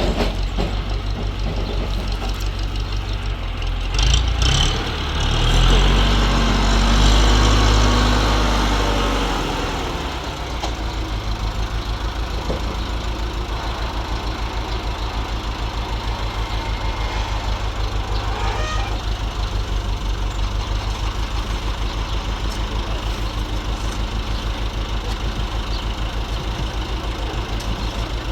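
A heavy engine running with an even, pulsing beat. It revs up for several seconds from about four seconds in, then drops back to a steady idle at about ten seconds.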